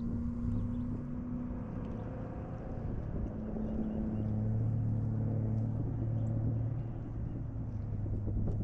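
A boat motor running with a steady low drone, growing a little stronger about four seconds in.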